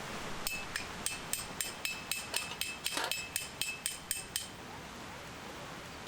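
Hammer driving a metal tent stake: a steady series of about fourteen sharp, ringing metallic strikes, a little over three a second, that stop about four and a half seconds in.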